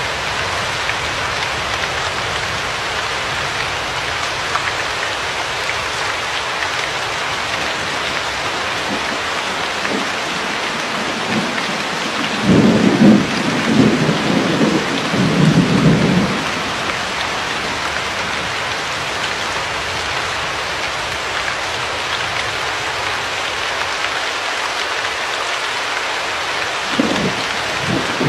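Steady heavy rain with a rumble of thunder rolling in about halfway through for a few seconds, and another starting near the end.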